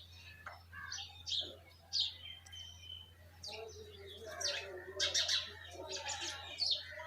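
Several birds chirping in quick, short high calls that come thicker and overlap in the second half, over a faint steady low hum.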